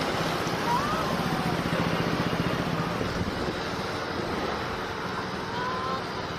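Steady engine and road noise of a car driving, with faint brief high whistling glides over it.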